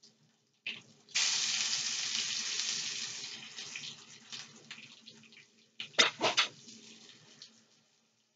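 Raw fish cake laid into hot oil in a skillet, sizzling loudly at first and fading over several seconds. A few sharp knocks follow about six seconds in.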